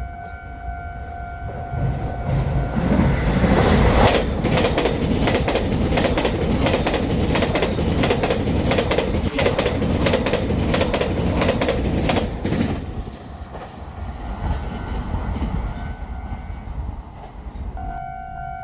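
A train passes through at speed, its wheels clattering rapidly over the rail joints. The sound builds over a couple of seconds, stays loud for about eight seconds, then fades away. A steady high tone sounds at the start and again near the end.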